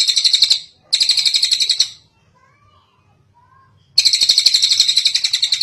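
Tengkek cililin bird singing loud, rapid, buzzy trills in bursts of about a second each: one ends just after the start, another comes about a second in, and a third starts about four seconds in. Fainter chirps from other birds fill the gap between.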